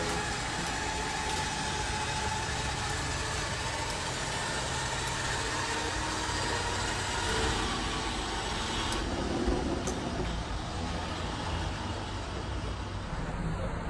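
A vehicle engine running steadily, a continuous low hum under a wash of hiss. The higher hiss drops away about nine seconds in.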